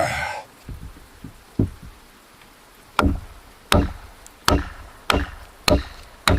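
Axe chopping into wood: a few soft knocks, then about three seconds in a run of six sharp blows in a steady rhythm, roughly two-thirds of a second apart.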